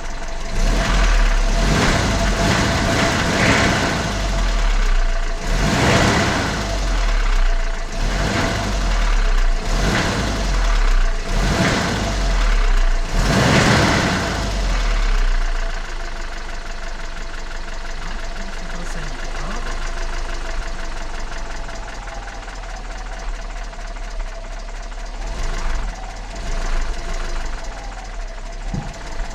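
ZMZ-402 inline-four petrol engine knocking while the throttle is blipped repeatedly, then settling to a steady idle about halfway through. The knock comes from play between the piston pins and connecting rods in all four cylinders.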